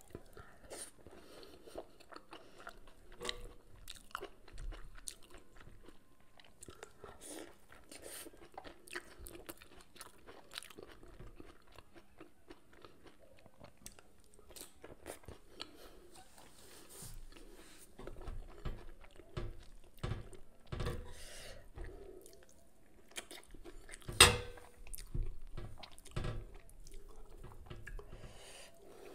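A person chewing and biting fried food, fried eggplant and fried mackerel, with soft crunches and wet mouth clicks. One sharp click stands out about three-quarters of the way through.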